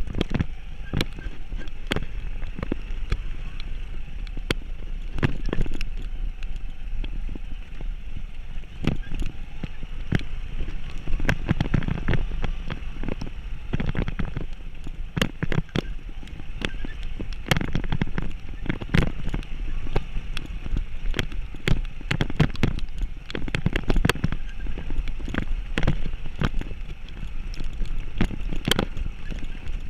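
Vehicle travelling along a rough mountain road in heavy rain: a steady low rumble with frequent sharp knocks, rattles and raindrop hits.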